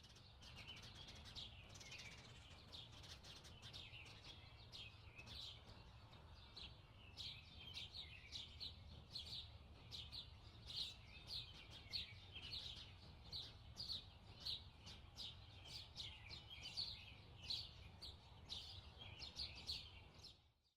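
Faint, short, high chirps repeating about twice a second, typical of a small bird calling, over a low steady hum.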